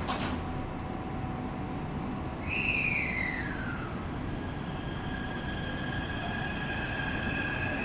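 Taipei Metro C371 train pulling out of the station: a sharp click at the start, then, as it moves off, its traction motors whine in a tone that falls in pitch and settles into steady high tones over the rumble of the wheels on the track.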